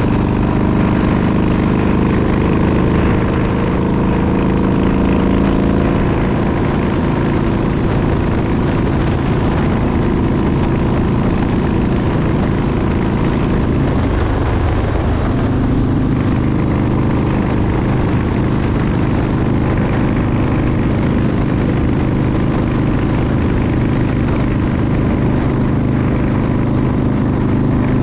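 Motorcycle engine running steadily while riding, mixed with the rush of wind and road noise; about halfway through the engine note dips briefly and settles at a new pitch.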